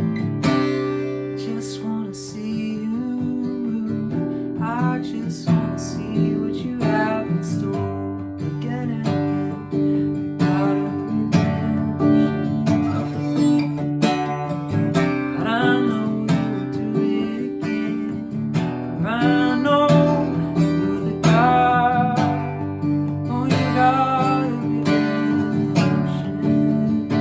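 Acoustic guitar strummed steadily, with a voice singing long wordless lines over it at intervals.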